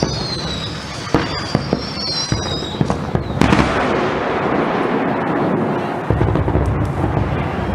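Fireworks display: high wavering whistles and several sharp cracks, then a loud burst about three and a half seconds in with a spreading noisy tail, and a deep boom about six seconds in.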